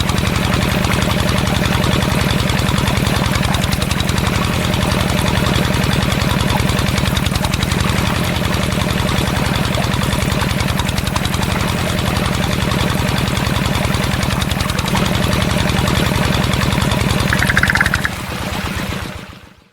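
Small motor of a DIY mini tractor running steadily with an even, fast pulse, fading out near the end.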